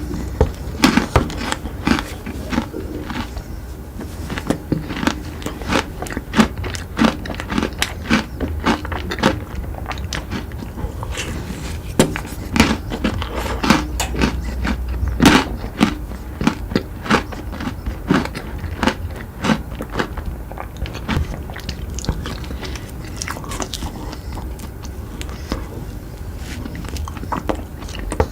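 Close-miked eating: repeated crunchy bites and chewing of chocolate sweets, with many sharp irregular cracks and crackles.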